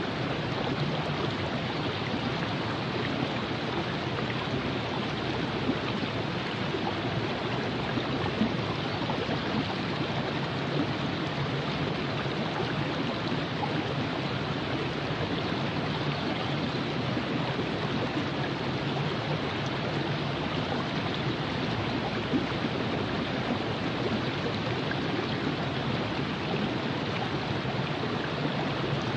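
River water flowing over rocks: a steady rushing and burbling that holds at an even level throughout.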